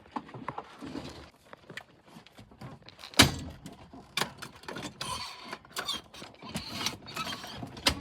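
Handling noise of seatbelt fittings and people shifting in their seats: a string of clicks and knocks with rustling, the loudest a single thump about three seconds in.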